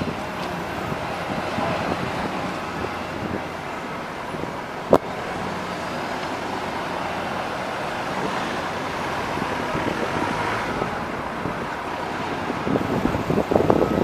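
Steady outdoor traffic and engine noise, with one sharp bang about five seconds in.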